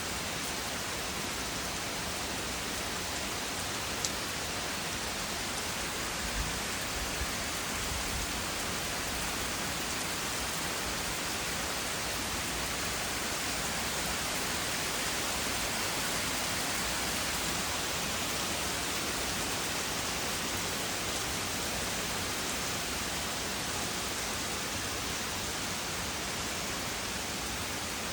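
Steady rain from a thunderstorm, an even hiss, with a few sharp ticks about four, six and seven seconds in.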